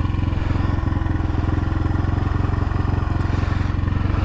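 X-Pro Templar X 250 dirt bike's single-cylinder engine idling steadily, with an even, fast firing pulse and no change in pitch.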